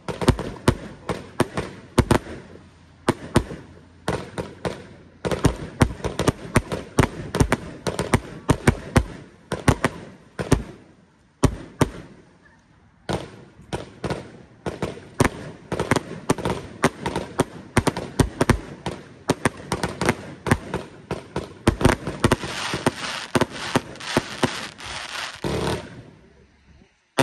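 Black Scorpion 1.4G consumer fireworks firing in quick succession: rapid launch thumps and sharp reports of small aerial shells. There is a short lull about halfway through and a dense burst of crackling near the end.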